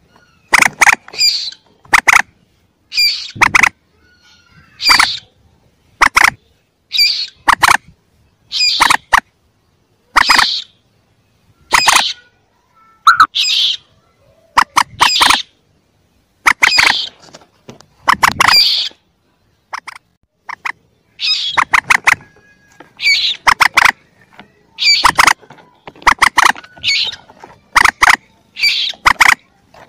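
Bird-lure recording of young common moorhen calls: short, high-pitched calls, each a quick cluster of notes, repeating about once a second.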